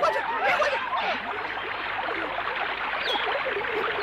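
A troop of monkeys chattering and squealing, many short rising-and-falling calls overlapping, over the steady rush of a stream or waterfall. The calls thin out in the middle, and a high falling squeal comes about three seconds in.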